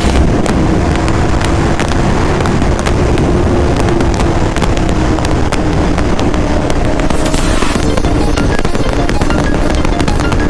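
Sportbike inline-four engine held at high revs at a nearly steady pitch that sags slightly, under heavy wind noise and a constant run of sharp crackles.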